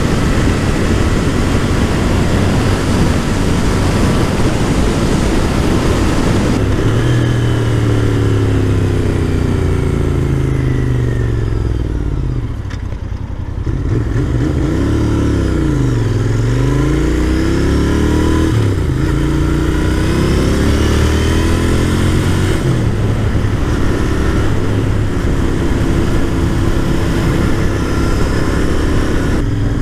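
2021 Royal Enfield Continental GT 650's 648 cc parallel-twin engine through an aftermarket exhaust. It runs steadily at first, then revs up and down several times, with the pitch dropping low and the sound going quieter in the middle before climbing again. It settles to a steadier note near the end.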